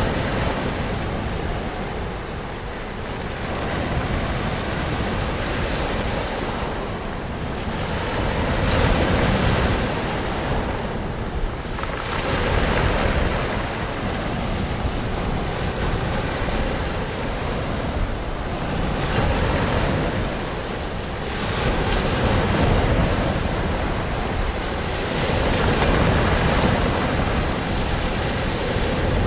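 Ocean surf: waves breaking and washing in one after another, swelling and easing every few seconds, with some wind noise.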